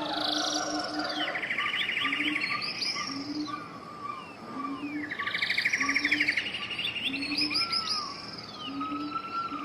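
Several songbirds singing together: long rapid trills, whistled slurs and short falling notes, over a soft low note repeated about once a second.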